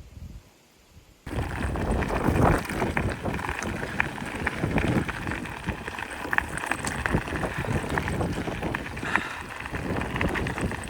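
Mountain bike being ridden over a rough, bumpy path, tyres crunching and the bike rattling with many small knocks, with wind buffeting the microphone. It starts suddenly about a second in.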